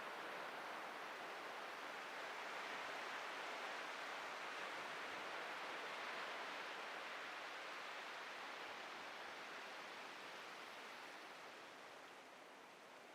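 Ocean waves breaking and washing ashore, a steady hiss of surf that swells in the middle and eases off near the end.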